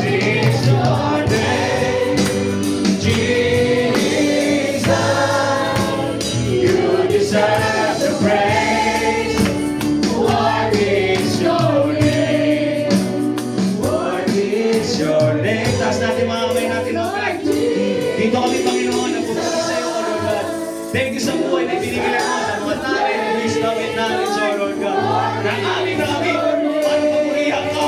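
Gospel worship music: a choir and congregation singing a praise song over a band, with tambourine.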